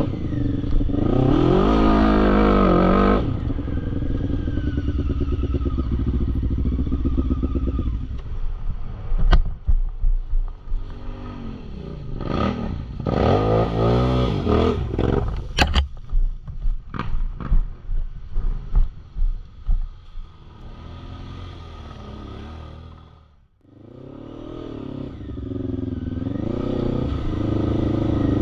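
Quad bike engines revving hard and easing off again and again, with a few sharp clicks and clatter in the middle. The sound drops out briefly near the end, then an engine comes back steady and rising.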